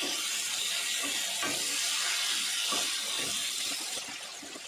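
Chicken pieces frying in oil on a large griddle, a steady sizzling hiss, with a spatula scraping and stirring through them a few times. The hiss eases off a little about four seconds in.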